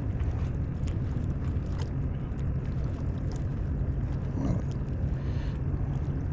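Small boat's motor running at low speed, a steady low hum, with a few faint clicks over it.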